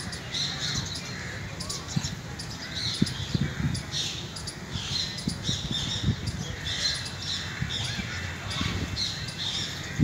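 Birds chirping with many short, high calls repeated every half second or so, over a low rumbling background.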